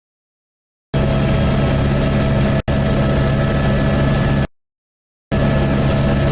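Helicopter cabin noise: a loud, steady drone of engine and rotors with several held tones. It cuts in about a second in, drops out for an instant, then cuts off past the four-second mark and comes back under a second later.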